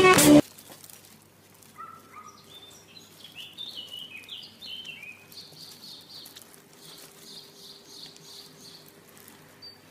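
Music stops abruptly about half a second in. Then comes a quiet stretch with a run of short, high bird chirps rising and falling, over a faint steady hum.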